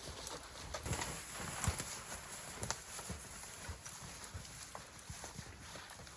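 Footsteps trudging and crunching through deep snow, an uneven run of soft thuds.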